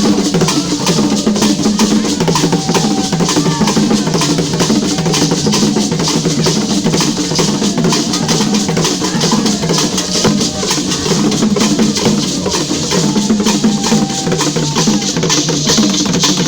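Music driven by fast, dense drumming and percussion, keeping a steady beat throughout.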